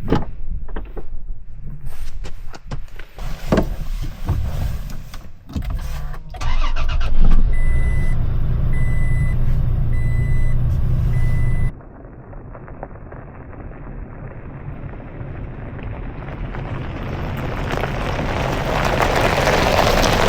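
Scattered knocks and clunks, then a pickup truck engine starting and running, with a short warning chime repeating about once a second. After a sudden drop it gives way to steady driving noise that slowly grows louder.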